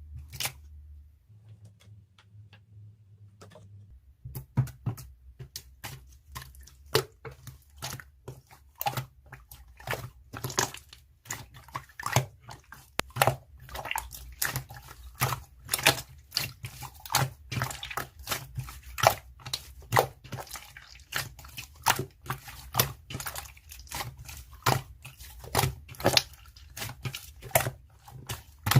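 Crisp, irregular crunching clicks, about two or three a second, like something small being chewed, starting about four seconds in after a low hum.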